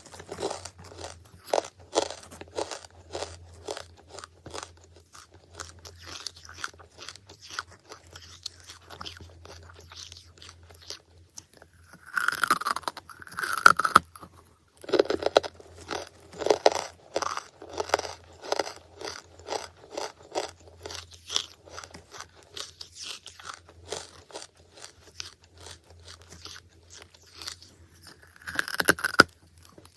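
Close-miked crunching and chewing of charcoal, crisp crunches repeating about twice a second. Louder, denser bouts of crunching come about twelve seconds in and again near the end.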